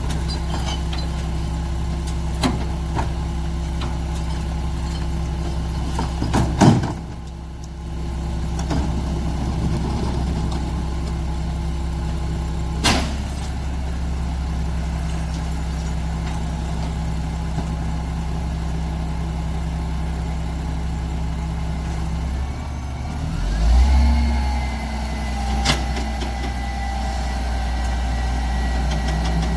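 Mack MR garbage truck's diesel engine idling steadily, with a few sharp knocks. About 23 seconds in the engine speeds up with a rising whine that then holds at a higher steady pitch.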